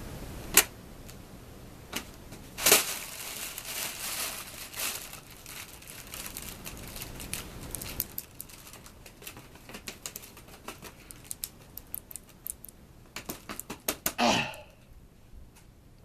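Irregular sharp clicks and quick taps mixed with crinkling rustles, with a louder scraping sound near the end.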